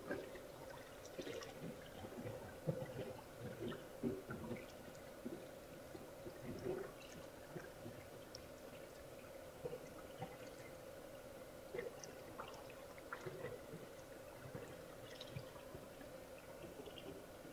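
Faint trickling and dripping water with a steady low hum, broken by scattered small clicks and knocks as an RC rock crawler's tires and chassis pick over wet rocks.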